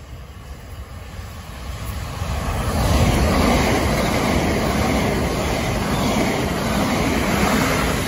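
Southeastern electric multiple-unit train running through the platform at speed: a rush of wheel and motor noise that builds over the first three seconds and stays loud as the carriages pass close by.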